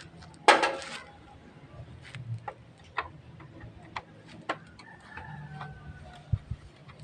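Hand tools working on a motorcycle carburetor: a short rattling clatter about half a second in, then scattered sharp metallic clicks and taps over a low steady hum.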